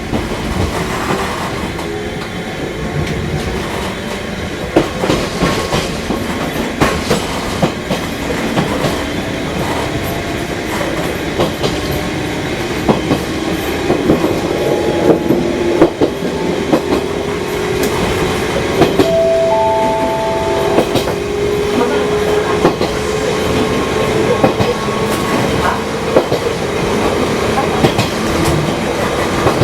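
Fukui Railway 200-series electric railcar running along the line, its motor whine slowly rising in pitch as it gathers speed, with irregular clicks and knocks from the wheels on the rails. A short two-note tone sounds about two-thirds of the way through.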